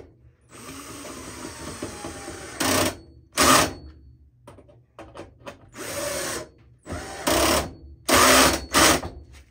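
Power drill/driver tightening 1/4-inch hex screws: one steadier run of about two seconds, then six short bursts of under a second each, the loudest around the middle and near the end.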